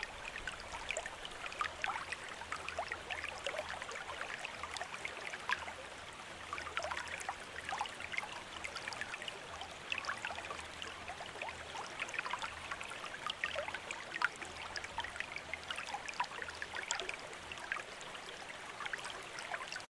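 Water from a bamboo fountain spout trickling and splashing steadily into a basin, a constant flow with many small droplet splashes.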